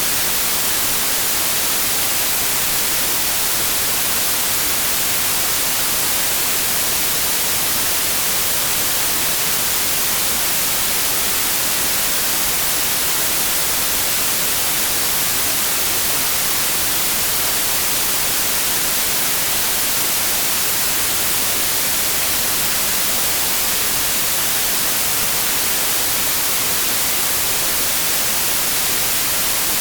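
Steady, unchanging white noise: an even hiss strongest in the high treble.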